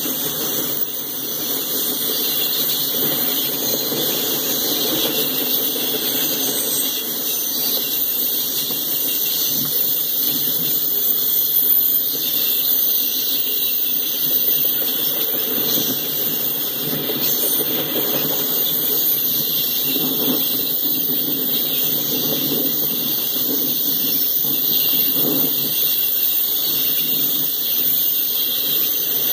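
Freight cars rolling past close by: a steady noise of steel wheels running on the rails.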